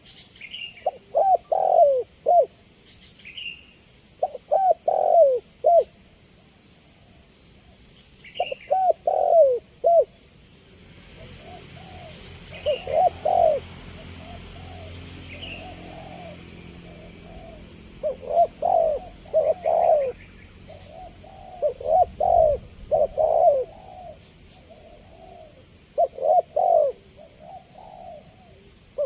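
Spotted dove cooing: phrases of several low coos, repeated every three to four seconds, over a steady high insect buzz.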